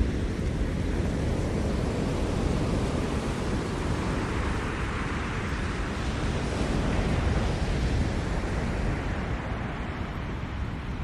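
Ocean surf breaking and washing onto the shore, a continuous wash that swells in the middle and eases off near the end.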